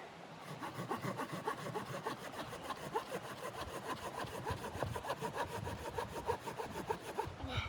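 Hand saw cutting through wood in quick, even strokes, stopping near the end.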